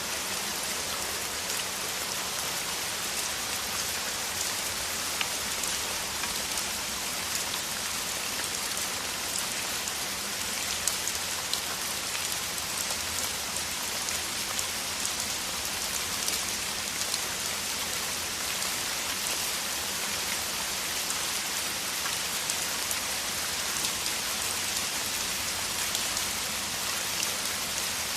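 Heavy rain, a downpour falling steadily: a dense, even hiss with many small, sharp drop hits scattered through it.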